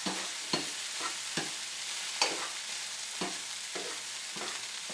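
Edamame and corn sizzling in oil in a hot sauté pan, a steady frying hiss, while a utensil stirs them and knocks against the pan about every half second, loudest a little after two seconds in.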